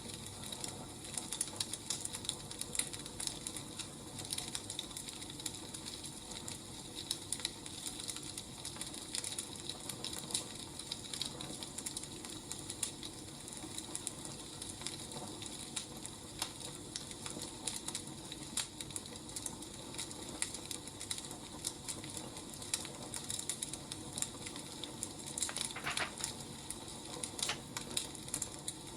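Wood fire crackling, with irregular small pops and snaps over a soft steady hiss; one sharper snap near the end.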